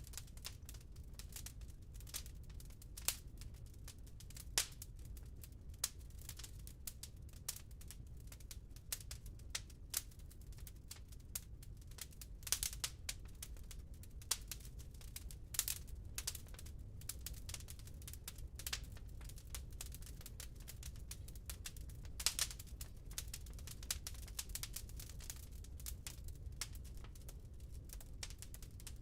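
Wood burning in a fireplace, crackling: irregular sharp pops and snaps, a few of them louder, over a low steady rumble.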